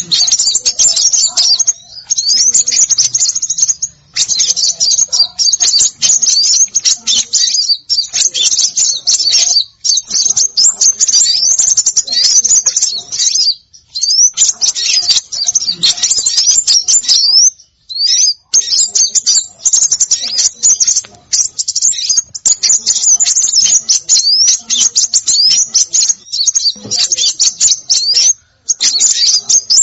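Bird-luring recording of small songbirds: dense, fast, high-pitched chirping and twittering with quick rising and falling notes. It comes in bursts separated by brief pauses.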